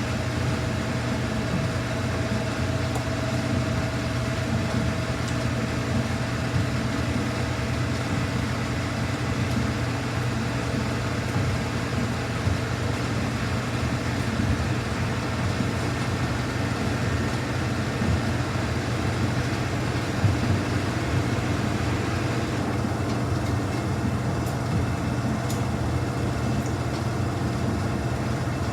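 Samsung washing machine running on a quick-wash cycle, a steady low hum and rumble from the drum and motor. A faint high whine fades early on, and a higher hiss drops away about 23 seconds in.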